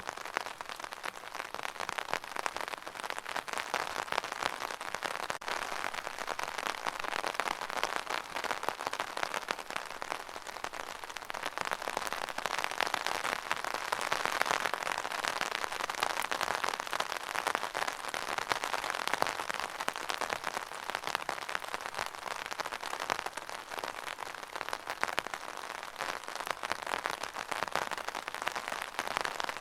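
Steady rain falling and pattering on a surface, a dense hiss of many small drops that swells a little in the middle.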